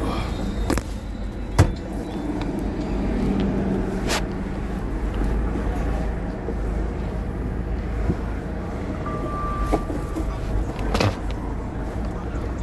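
A vehicle driving: a steady low engine and road rumble, with a few sharp knocks, the loudest about one and a half seconds in.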